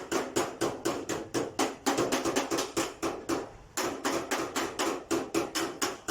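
A hammer striking quickly and evenly, about five blows a second, with a short pause a little past the middle before the blows resume.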